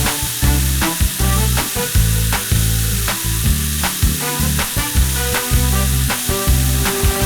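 A steady, loud hiss like sizzling or spraying, starting at once, over background music with a steady bass beat.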